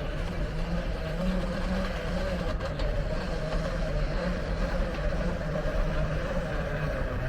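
A vehicle engine running steadily, a constant low hum with a higher droning tone above it.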